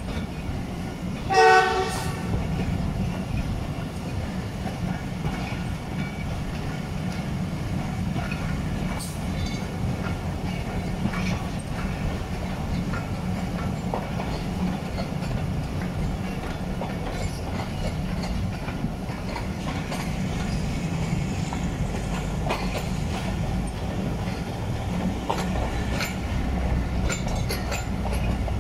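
Passenger train running slowly, heard from inside a coach: a steady low rumble of the wheels with occasional clacks over rail joints. A short horn blast sounds about a second and a half in.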